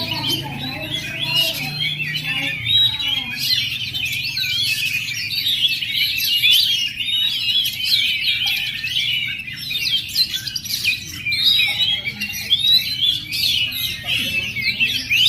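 Oriental magpie-robin (kacer), a young male, singing a continuous fast, varied song of whistled glides and chirps.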